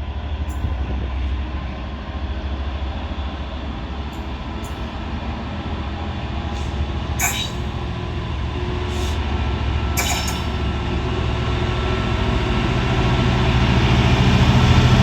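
Freight train hauled by a Class 66 diesel locomotive passing through: a steady low rumble of wagons rolling over the rails, with a few sharp clacks about seven and ten seconds in, growing louder toward the end.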